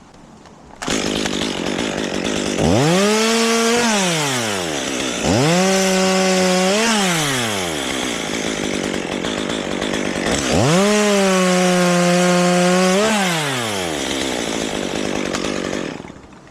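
Chainsaw running and revved to full speed three times, each rise held for a second or two before falling back, as it cuts into a maple limb.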